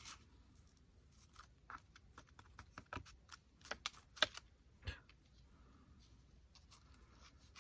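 A scattered run of small clicks, taps and paper rustles from hands handling and placing small cut paper pieces at a craft table, thickest between about one and a half and five seconds in.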